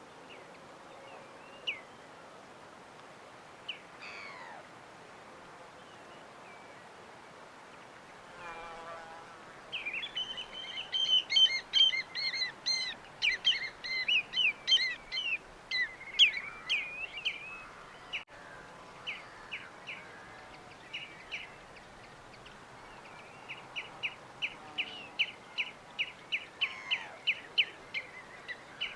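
Small birds chirping, with scattered single calls at first, a dense flurry of overlapping chirps in the middle and a run of quick repeated chirps near the end, over a faint steady hiss.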